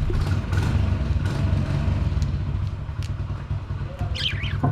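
Budgerigars in an aviary, one giving a short warbling chirp about four seconds in, over a steady low rumble.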